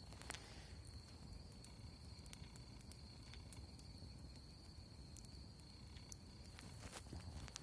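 Campfire crackling faintly, with scattered sharp pops, over a steady high-pitched whine.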